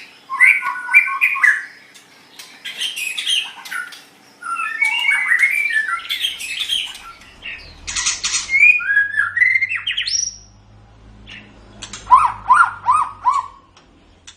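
White-rumped shama (murai batu) singing a loud, varied song of quick slurred whistles, harsh chattering notes and trills. About ten seconds in comes a rising whistle, and near the end a run of four falling notes.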